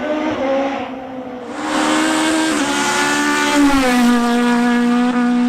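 Renault Clio F2000 rally car's four-cylinder engine running hard. It gets louder about a second and a half in, then its pitch drops and holds steady near the end.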